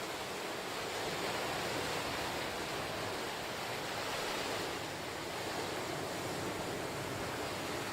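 Ocean surf washing onto the shore in a steady hiss, swelling and easing gently as the waves come in.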